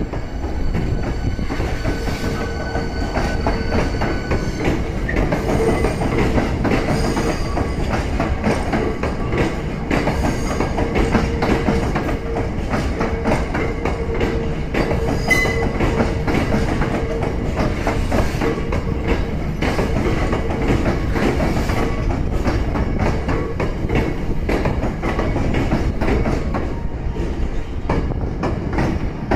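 Hankyu 8300 series electric train rolling past at low speed: a steady running rumble, the repeated clack of wheels over rail joints and points, and a steady whine.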